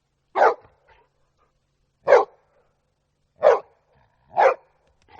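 Dog barking: four single barks, about one to one and a half seconds apart.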